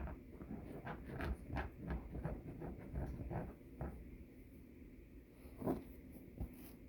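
Dog scratching and pawing at couch cushions, digging for something lodged in the couch: a run of short scratching strokes, two or three a second, easing off after about four seconds, with two sharper scratches near the end.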